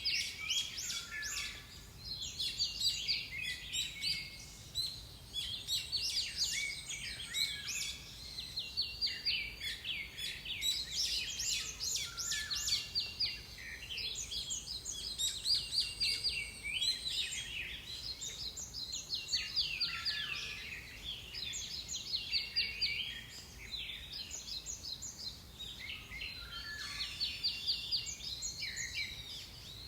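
Forest birdsong: small songbirds singing quick, high chirping and trilled phrases of rapidly repeated notes, one after another with short pauses, over a faint background hiss.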